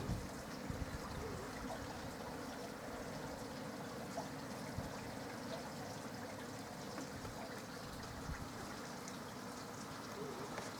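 Rainwater trickling and dripping steadily, with scattered light ticks of drops.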